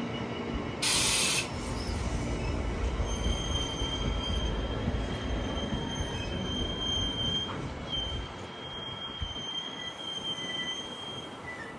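Train running slowly with a low rumble, its wheels squealing in thin, steady high tones for most of the time. A short loud hiss comes about a second in.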